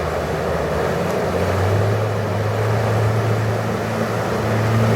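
Off-road truck engine running with a steady low drone that grows louder about a second and a half in, over a rushing noise.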